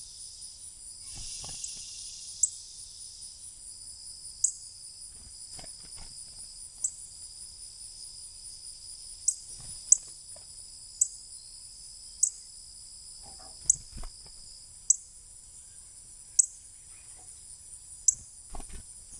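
A steady, high-pitched drone of summer insects, with a bird's sharp, high chip note repeated about every one to two seconds on top, plus a few faint low thuds.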